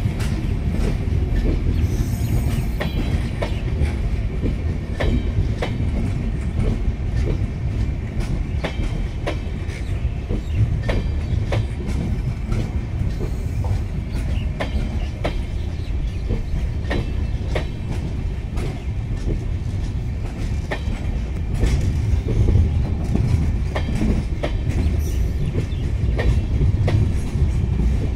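A rake of LHB high-capacity parcel vans rolling past at speed: a steady low rumble of wheels on rail, with repeated sharp clicks as the wheels run over the rail joints.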